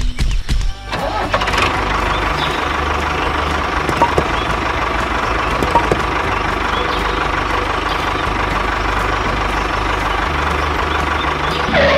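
An engine running steadily with a low rumble, starting abruptly about a second in and cutting off just before the end.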